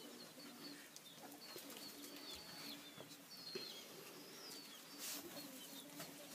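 Faint bird calls: many short high chirps together with low, repeated cooing notes.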